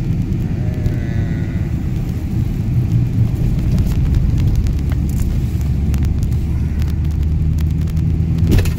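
Steady low rumble of a car driving on a snow-covered, unplowed road, heard from inside the cabin: engine and tyres on snow.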